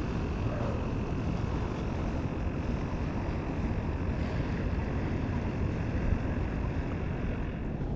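A small fishing skiff's motor running steadily as the boat is turned around, with a constant low rumble of engine and water noise.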